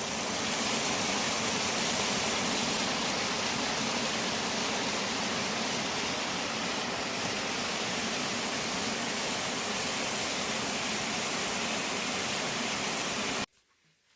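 A steady, even rushing noise that cuts off suddenly near the end.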